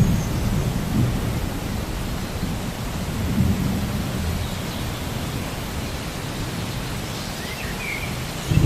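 Steady rain with low rumbles of thunder that swell several times, the loudest one starting right at the end.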